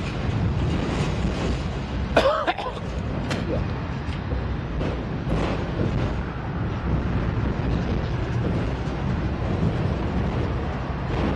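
Autorack freight cars rolling past: a steady rumble of wheels on rail. A short, sharp sound comes about two seconds in, followed by a click about a second later.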